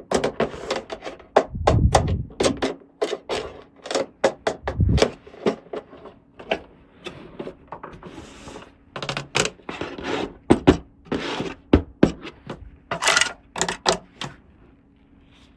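Small plastic toy pieces and packaging being handled: a dense run of sharp clicks and taps, with a couple of brief rustles, that thins out near the end.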